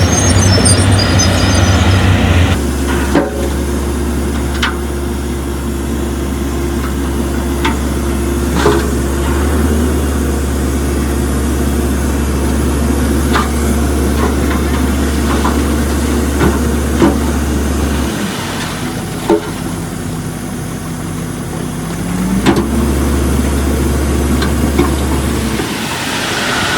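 Heavy diesel construction machinery running steadily at a low drone, with scattered sharp metallic clanks and knocks, and the engine note rising briefly late on.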